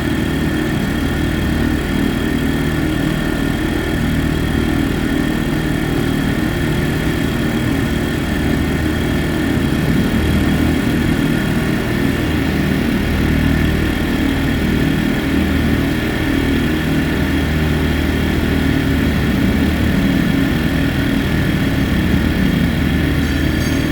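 Tsuzumi TIG 2000 IS inverter generator running steadily, with an even engine note and a constant high whine over it.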